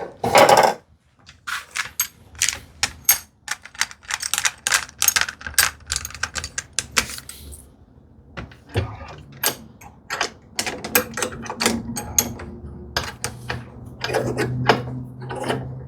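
Quick runs of sharp clicks and rattles from woodworking clamps being handled and tightened on a glued-up drawer box. A low steady hum comes in near the end.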